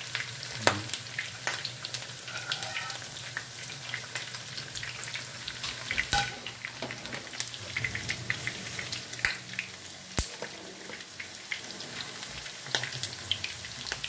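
Pork chops pan-frying in hot oil in a skillet: steady sizzling with many small pops and crackles, and a few sharper clicks spread through.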